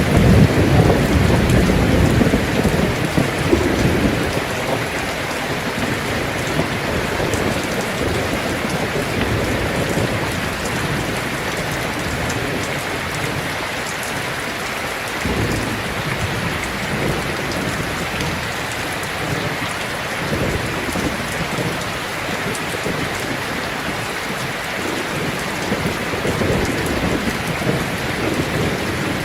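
Heavy rain drumming steadily on a tin roof. A roll of thunder rumbles loudly over the first few seconds, and fainter low rumbles return a few times later on.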